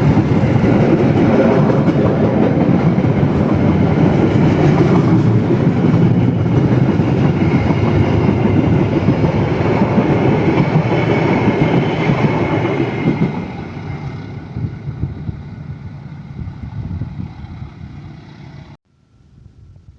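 Train running past close by, a loud steady rumble of wheels and cars on the rails. It fades away from about two-thirds through and cuts off suddenly just before the end, leaving a faint hum.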